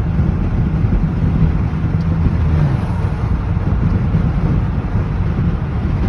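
Steady low rumble of a van driving on the road, with road and wind noise throughout.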